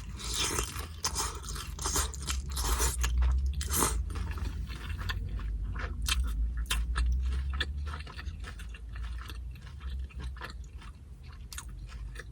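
Close-miked crunching and chewing of tortilla chips loaded with carne asada and salsa. The crunching is dense and loud for the first few seconds, then thins to lighter, scattered crackles.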